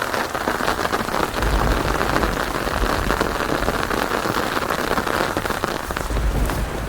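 Steady heavy rain falling, a dense hiss full of pattering drops, with a low rumble of distant thunder about a second and a half in and again near the end.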